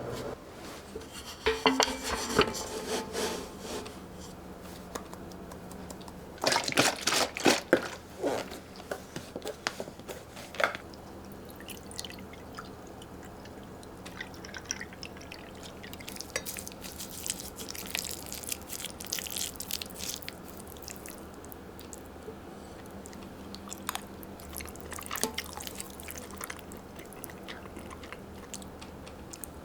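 Close-up kitchen and eating sounds: scattered bursts of sharp clicks and clinks with small wet, dripping sounds and chewing.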